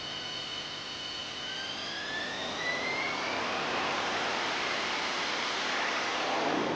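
Harrier jump jet's jet engine spooling up: a high whine rising in pitch, under a rushing jet noise that grows louder toward the end.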